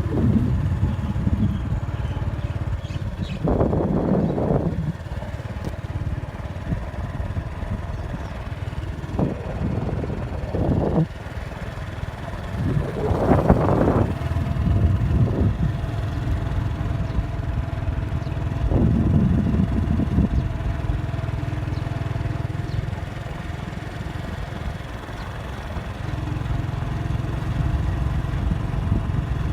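Strong storm wind buffeting the microphone as a steady low rumble, with louder gusts surging about four times.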